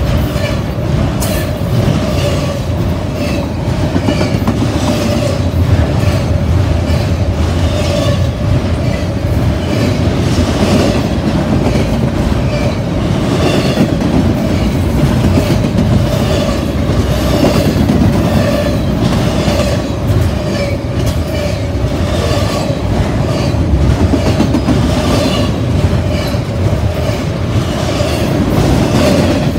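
Double-stack intermodal freight train's well cars rolling past close by: a steady rumble of steel wheels with a repeated clickety-clack over the rail joints.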